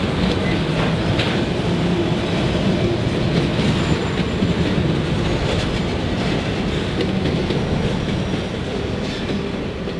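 Freight train's autorack cars rolling past, a steady rumble of wheels on rail with scattered clicks. The noise slowly fades near the end as the tail of the train moves away.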